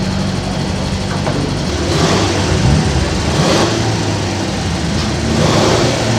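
A vehicle engine idling steadily, with rushes of noisier sound over it about two seconds in and again near the end.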